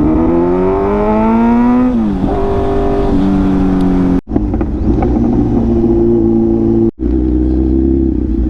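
Kawasaki Z900's inline-four engine revved hard under acceleration, its note rising for about two seconds and dropping sharply at an upshift, then running steadily. The sound cuts out briefly twice.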